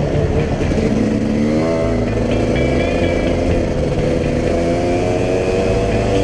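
Enduro dirt bike engine running while riding, its revs climbing about a second and a half in, with background music over it.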